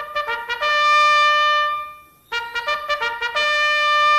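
Trumpet playing a short phrase twice: a few quick notes leading into a long held note, then the same phrase again after a brief pause.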